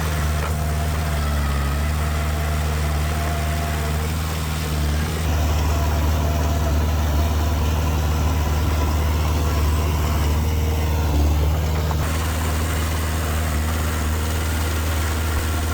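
Diesel engine of heavy earthmoving machinery running steadily, a little louder from about five seconds in.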